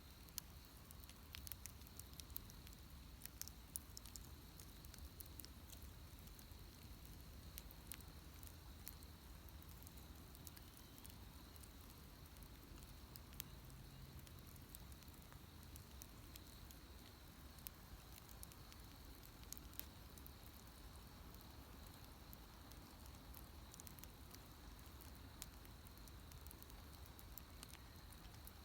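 Wood bonfire crackling quietly, with scattered sharp pops and snaps that come thickest in the first few seconds.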